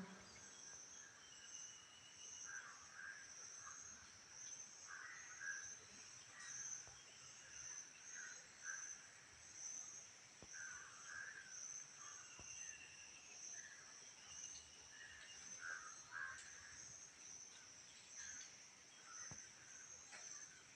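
Faint natural ambience: a steady, pulsing high-pitched insect chorus, with short bird calls every second or two and an occasional thin whistled note.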